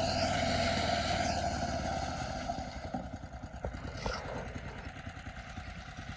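An engine running steadily, dying down about two and a half seconds in, followed by a few faint knocks.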